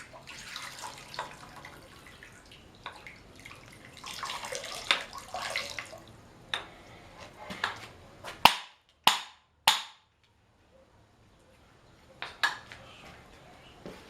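Clinks and knocks of metal parts being handled, with two stretches of hissing or rustling early on, and three sharp loud clicks in quick succession about eight and a half seconds in.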